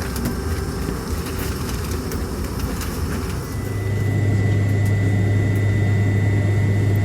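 Steady cabin noise inside a McDonnell Douglas MD-88 airliner before departure; about halfway through a loud, steady low hum starts, with a faint high steady whine above it, and the cabin gets a little louder.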